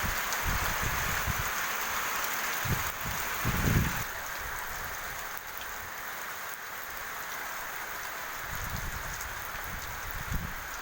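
Heavy rain falling steadily, with gusts of strong wind thudding on the microphone; the strongest gust comes a little under four seconds in.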